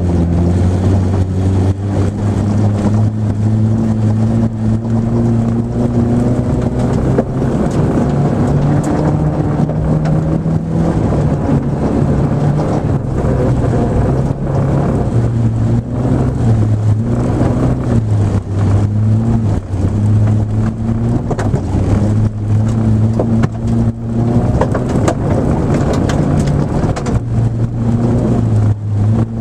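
Nissan Micra rally car's engine working hard through an autocross run, its pitch climbing and dropping again and again as it accelerates and lifts. Scattered short knocks sound over it.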